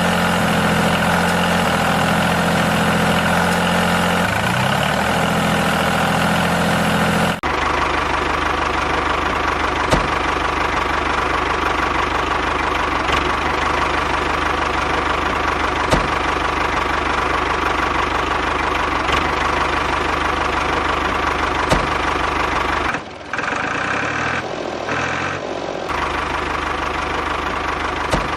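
Engine idling steadily with a knocking beat. The sound changes abruptly about seven seconds in and dips briefly near the end.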